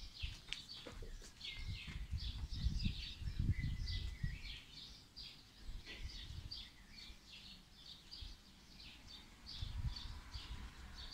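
Small birds chirping in quick, repeated short notes throughout, over a gusty low rumbling noise that comes and goes.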